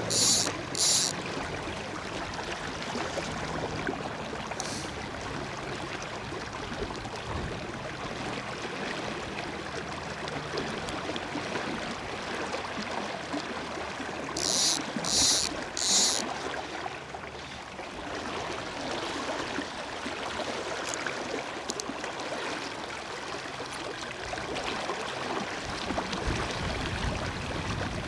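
River water flowing steadily, with wind noise on the microphone. About halfway through comes a short run of three quick, high-pitched rasps.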